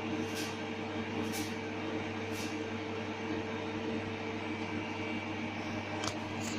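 Steady machine hum with several fixed tones, with short high hissing ticks about once a second in the first few seconds and twice more near the end.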